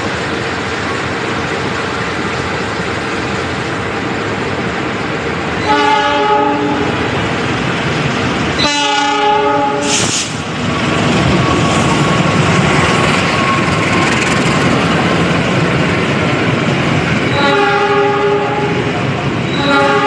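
Locomotive horn sounding four blasts, the second a little longer. From about halfway through, the rumble and clatter of a train passing through the station builds underneath.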